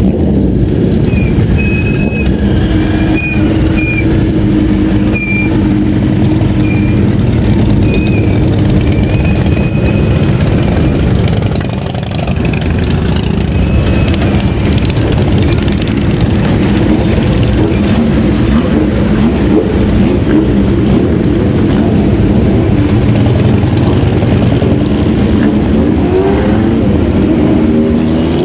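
Motor vehicle engines running loudly and steadily, with revving near the end.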